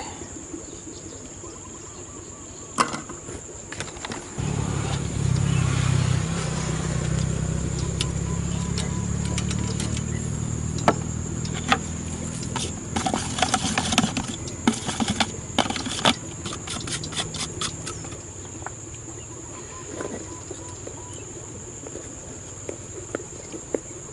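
A steady high-pitched drone of crickets or other insects. A low motor hum comes in about four seconds in and fades away later, with scattered clicks and knocks in the middle.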